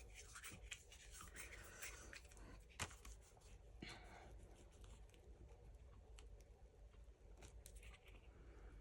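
Near silence with faint handling noises from craft work: light scratching and small clicks, and one sharper click about three seconds in.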